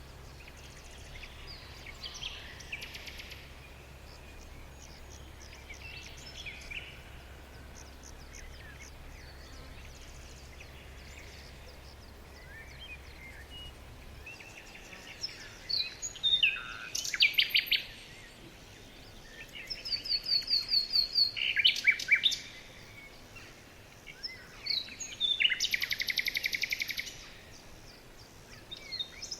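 Songbirds singing: faint scattered calls at first, then from about halfway several loud bursts of rapid, trilled repeated notes. A faint low hum underneath stops about halfway through.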